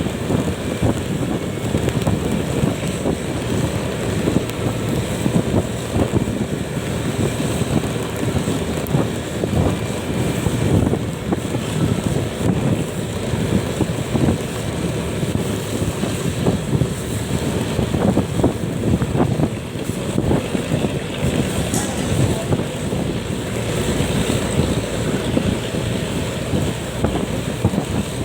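Wind buffeting the microphone on a moving ride, a dense, steady rumble of wind and road noise.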